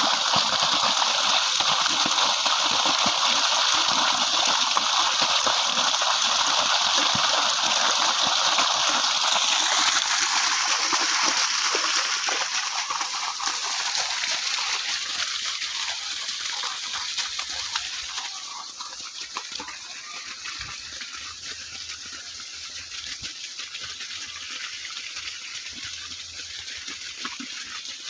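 Steady rushing of water that fades after about twelve seconds and is quieter from about eighteen seconds on.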